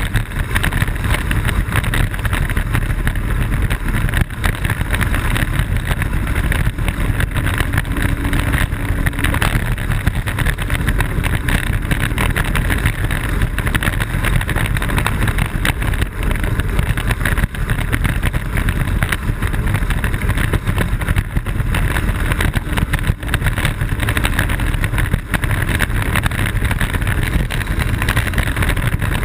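Steady rush of wind buffeting the microphone of a camera mounted on a Blokart land yacht under sail at speed, mixed with the rumble of its wheels rolling on the ground.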